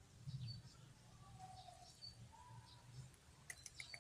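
Faint outdoor birdsong: scattered high chirps and a couple of soft, drawn-out lower notes over a low rumble. Near the end comes a quick run of ticking chirps.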